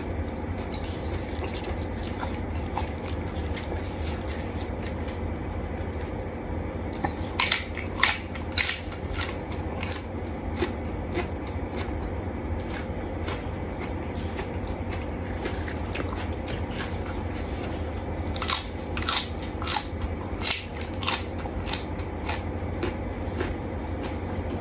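Close-up chewing with crisp crunches, which come in two clusters: one about seven seconds in and one around eighteen seconds in. A steady low hum runs underneath.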